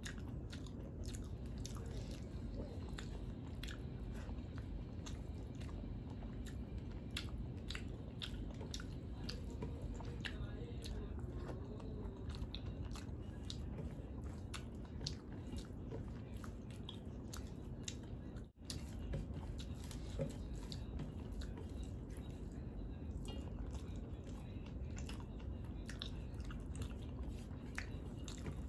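Close-miked chewing of a mouthful of rice and fish curry, with many small wet clicks and smacks. Fingers mix rice on a steel plate now and then.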